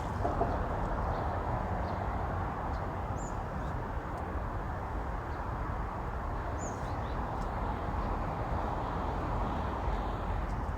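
Steady low outdoor background noise with a rumble underneath, and two faint high chirps, one about three seconds in and another near seven seconds.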